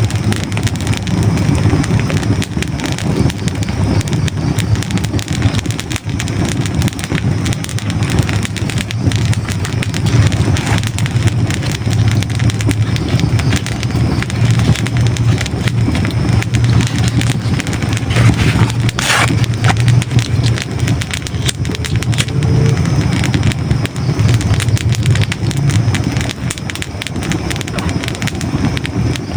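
Hardwood logs burning in a fireplace: a steady low rumble of flames under constant fine crackling and small pops, with one sharper crack about two-thirds of the way through.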